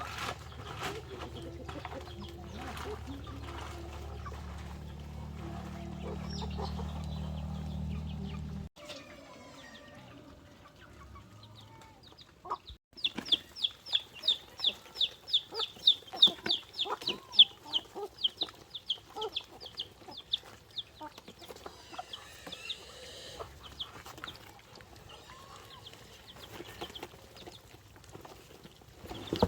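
Chickens clucking, with a fast run of sharp high calls about four a second through the middle. A low steady hum plays under the first third and cuts off suddenly.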